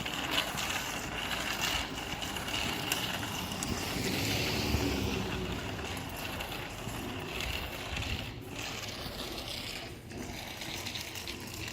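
Bicycles being ridden along a path: a steady rolling rumble from the tyres, with a few light clicks and rattles.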